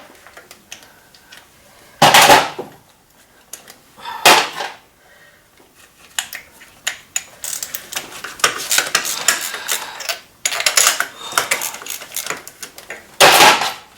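Metal hand tools clinking and rattling during spark plug removal on an engine: three sharp metallic clanks about 2, 4 and 13 seconds in, with a long run of small clicks and rattles between about 7 and 12 seconds in.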